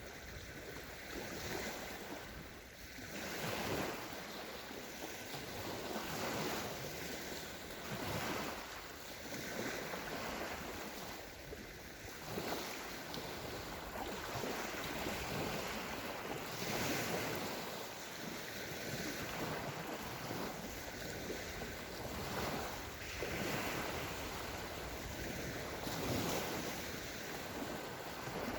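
Small sea waves breaking and washing up on a sandy shore, one swell after another every two to three seconds.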